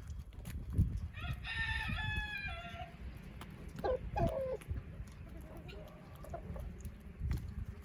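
A rooster crowing once for about a second and a half, followed a couple of seconds later by two short falling chicken calls.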